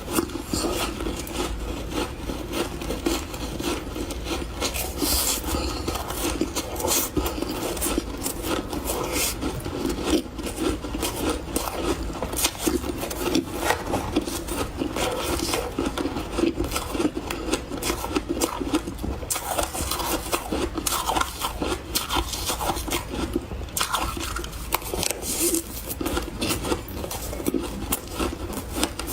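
Close-up chewing of refrozen powdery ice: a dense, steady run of soft crunches with no pauses.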